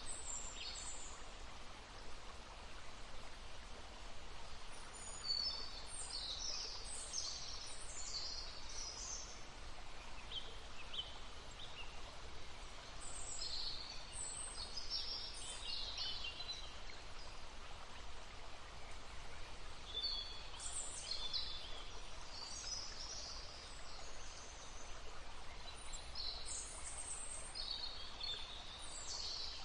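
Songbirds singing in short bursts of high chirps and trills every few seconds over the steady babble of a brook.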